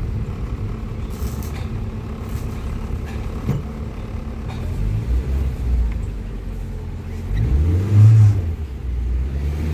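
Street traffic rumbling, with a motor vehicle's engine passing close and loudest about eight seconds in.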